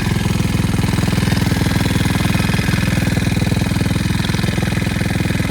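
Pit bike's small single-cylinder engine idling steadily and close, with an even rapid pulse.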